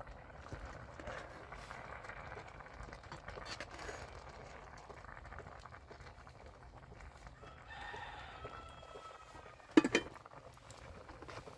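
A rooster crows once, one long call lasting about two seconds, over a low background hiss. Right after it comes a sharp knock, the loudest sound here.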